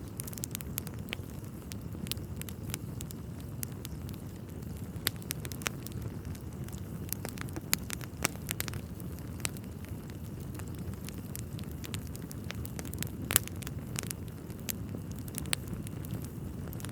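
Wood fire burning in a fireplace, crackling with irregular sharp pops over a steady low rush of flame. The loudest pop comes about two-thirds of the way in.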